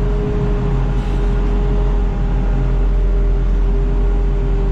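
Engine running steadily: a constant low rumble with a steady whine above it.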